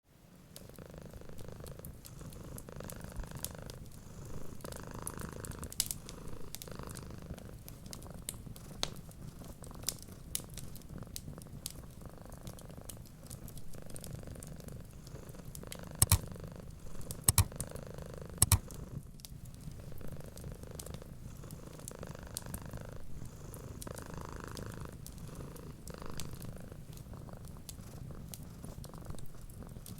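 Domestic cat purring steadily, with the purr swelling and fading in a slow rhythm, over a wood fire's crackling. Sharp pops come throughout, with three loud ones about halfway through.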